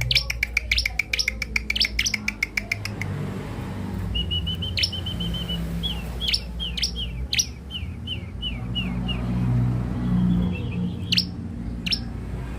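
Bar-winged prinia (ciblek) singing: a fast run of repeated sharp chirps, then a short trill and a string of quick separate notes, over a steady low hum.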